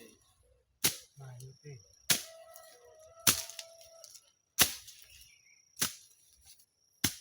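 Steady rhythm of sharp strikes from a hand tool chopping or digging, six blows about one every second and a quarter.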